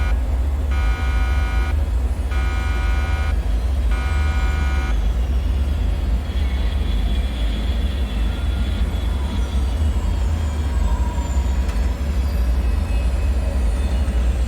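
Creepy bunker ambience: a deep, steady rumble under a buzzing alarm tone that pulses about every second and a half. The alarm stops about five seconds in, leaving the rumble and faint, falling high-pitched whistling tones like strained metal.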